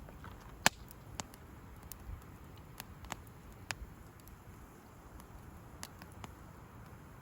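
Wood campfire crackling: irregular sharp pops and snaps from burning firewood, one much louder pop under a second in.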